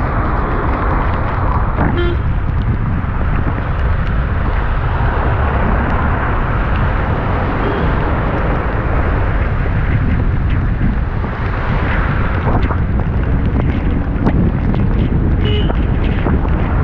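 Wind buffeting the microphone of a GoPro action camera on a moving motorcycle, a steady loud rush with the bike's engine and road noise underneath.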